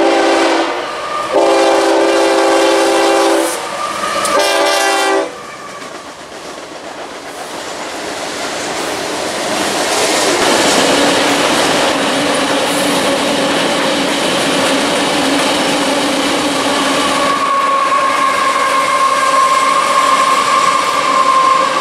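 Diesel freight locomotive blowing its multi-chime horn: the tail of one blast, a long blast of about two seconds, and a short blast near the five-second mark. A freight train of covered hopper cars then rolls past, the clatter of wheels on rail building steadily. After a cut about three-quarters through, a train runs with a steady high-pitched whine over its rumble.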